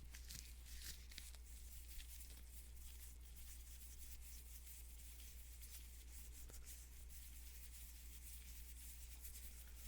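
Faint rubbing and crinkling of nitrile gloves on hands, busiest in the first couple of seconds and then sparse, over a steady low electrical hum.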